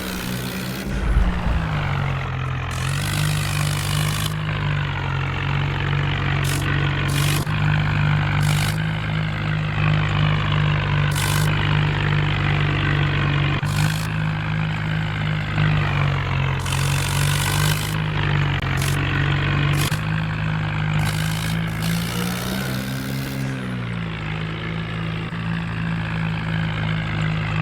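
Swaraj tractor's diesel engine running steadily, its pitch dipping and rising again near the start and once more about three quarters of the way through as the revs change, with repeated short bursts of hissing noise over it.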